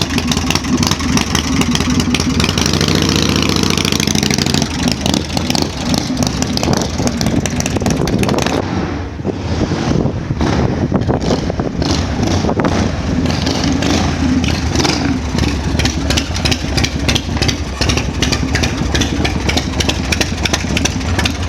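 1990 Harley-Davidson Heritage Softail Classic's 1340 cc Evolution V-twin running at idle, with one blip of the throttle about three seconds in that rises and falls in pitch before settling back.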